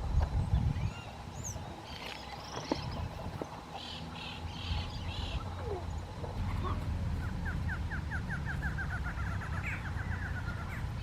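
Several wild birds calling: scattered short chirps and whistles, then about halfway through a rapid trill of quickly repeated notes lasting a couple of seconds. A low rumble runs underneath.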